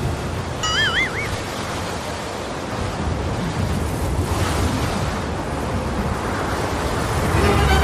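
Steady rushing noise of wind and sea waves on the microphone aboard a boat, with a brief warbling whistle about a second in.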